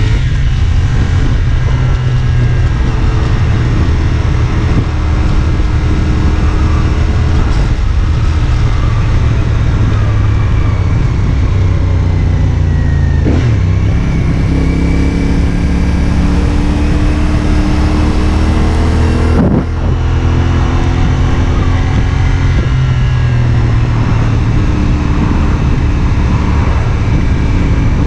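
CFMOTO 450SR S sport bike's 449 cc parallel-twin engine running under way, its pitch climbing as it pulls, with two gear changes near the middle where the note drops and builds again.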